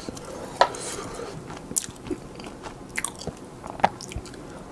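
Close-miked eating sounds: a person chewing a pan-fried hotteok dumpling, with four sharp wet clicks and smacks about a second apart.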